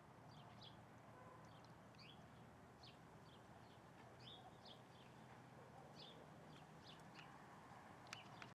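Birds chirping faintly: a scatter of short, high chirps throughout, over a low background hiss.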